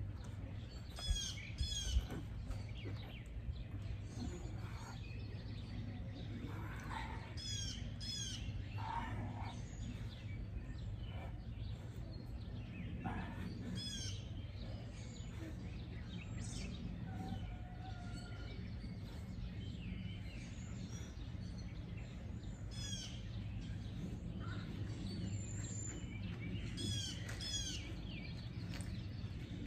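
Birds chirping and calling on and off, short repeated phrases, over a steady low background hum.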